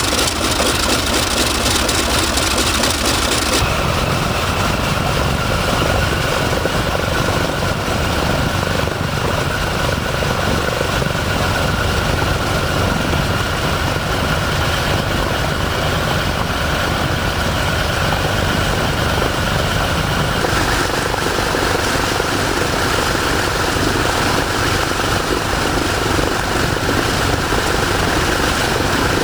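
Douglas DC-6's Pratt & Whitney R-2800 radial piston engines running steadily on a ground test run, heard from inside the cockpit. The engine note changes about three and a half seconds in, with a deeper low end from then on.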